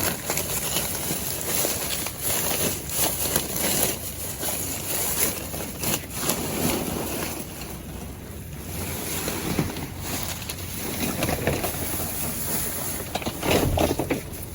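Wind blowing across the microphone: a rushing noise that swells and fades, with a few brief knocks.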